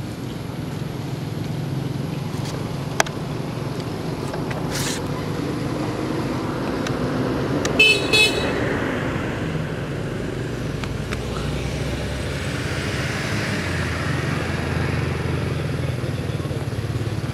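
Steady road traffic, with a sharp click about three seconds in and a vehicle horn giving two short beeps about eight seconds in.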